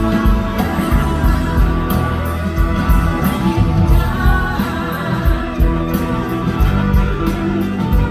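Live blues-rock band music with a steady beat and heavy bass, and a voice singing over it.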